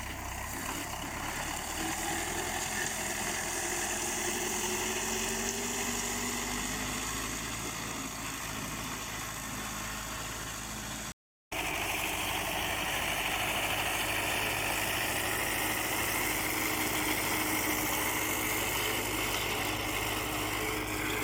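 MTZ tractor's diesel engine running steadily while driving a KRN-2.1 rotary mower, with a slowly wavering pitch. The sound cuts out briefly about eleven seconds in, then resumes.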